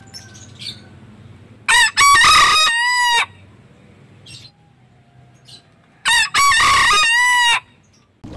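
Rooster crowing twice, each crow about a second and a half long and ending in a drawn-out note that falls in pitch.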